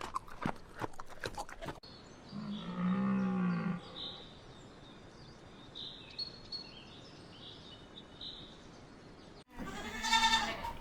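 Farm animal calls: a low, pitched call lasting about a second and a half, faint high chirps in the background, then a louder, higher call near the end.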